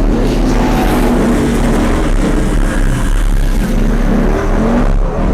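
Car engine revving loudly and steadily, its pitch rising and falling, over a constant rushing noise.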